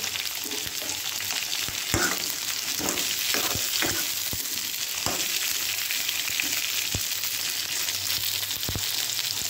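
Tomatoes, shallots and dried red chillies sizzling in oil in a kadai, with a steady hiss. A steel spoon stirring them scrapes and taps against the pan now and then, most often in the first half.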